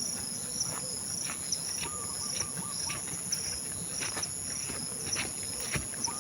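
Forest insects calling: a steady high shrill with a chirp repeating about twice a second over it, and scattered clicks and ticks throughout.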